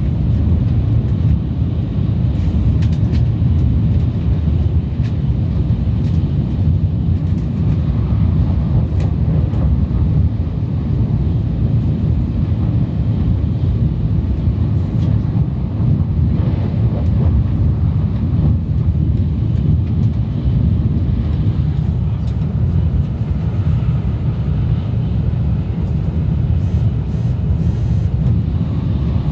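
Shinkansen train running at speed: a steady, loud, low rumble of running noise with a few faint ticks.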